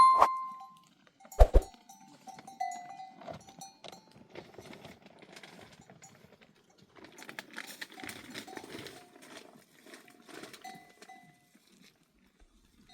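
Bells on a flock of sheep and goats clinking irregularly as the animals move, with goat or sheep calls among them and a sharp knock about a second and a half in.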